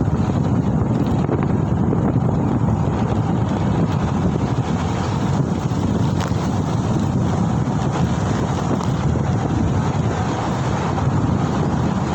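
Steady wind rush buffeting the microphone of a moving rider, over road noise.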